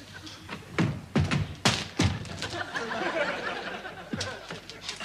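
A house being smashed up from inside: several heavy thuds and bangs in quick succession, then a longer clattering crash, and one more thud near the end.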